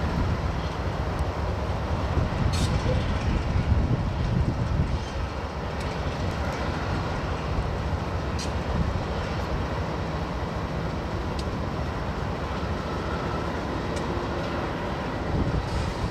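Union Pacific freight train's diesel locomotives working under load as the train pulls out of a siding: a steady low rumble, with the freight cars rolling behind and a few sharp clicks.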